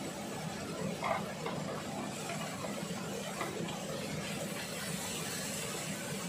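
Sliced vegetables sizzling in a wok over a gas flame, a steady hiss, with a few soft knocks as sliced mushrooms tumble in and a wooden spoon stirs them, about a second in and again past three seconds.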